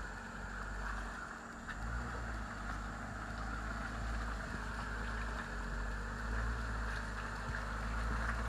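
Jeep Wrangler JL Rubicon running at a low, steady pace as it crawls up a rutted, muddy trail, a low engine and drivetrain rumble that grows a little louder toward the end.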